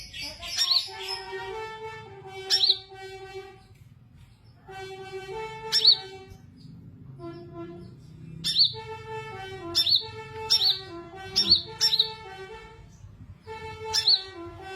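A small sunbird (kolibri) chirping about nine short, sharp, high calls at irregular intervals, over background music with a stepped melody.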